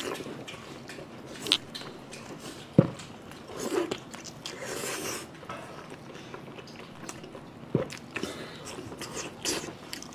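Close-miked biting and chewing of blood sausage in chili sauce: soft wet smacking mouth sounds, with a few sharp, louder clicks.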